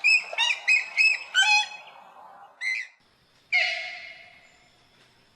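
Common moorhen calling: a quick run of about five short, sharp pitched notes, then a single note, then a harsher call that trails off with an echo.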